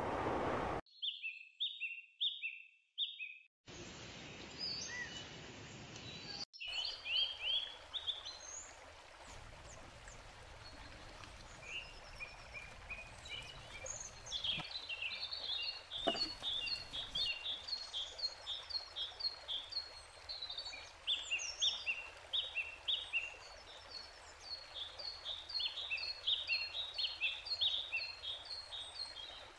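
Birds singing: rapid series of short, high chirping notes repeated phrase after phrase over a faint steady background hiss, with one brief knock about halfway through. The first few seconds are broken by abrupt cuts.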